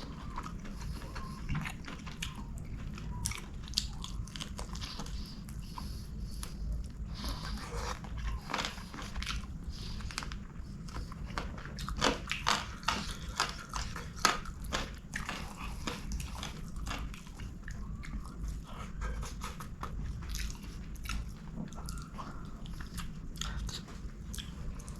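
A person eating close to the microphone: wet chewing and biting with many small mouth clicks and snaps, busiest and loudest a little past the middle.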